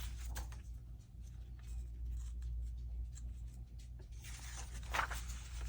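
Paper pages being handled and shifted on a work surface: light scattered rustles and small taps over a steady low hum.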